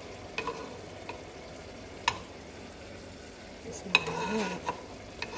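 Pine nuts frying in hot oil in a nonstick pan: a low, steady sizzle, with a slotted metal spoon clinking against the pan a few times, sharply about two seconds in and loudest about four seconds in.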